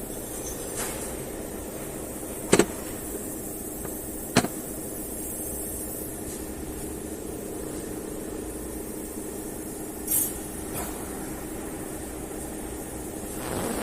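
A few sharp clicks and knocks of small metal parts or hand tools being handled, two of them loudest within the first five seconds, over a steady background hum.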